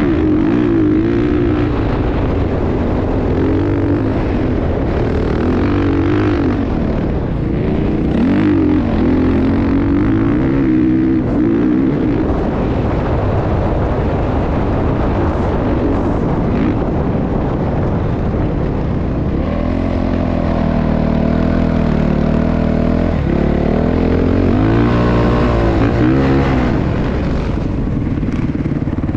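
Motocross dirt bike engine revving up and down over and over, with a stretch of steadier running about two-thirds of the way through.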